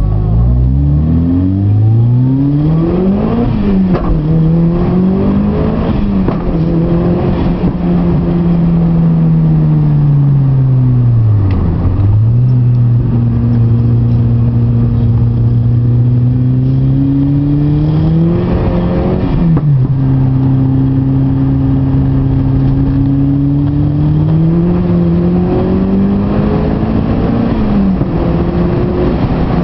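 Mitsubishi Lancer Evolution IV's turbocharged 2.0-litre four-cylinder engine heard from inside the cabin, pulling hard through the gears. The pitch climbs and drops with quick upshifts in the first few seconds, falls away about twelve seconds in, then climbs again with a shift near twenty seconds and another near the end.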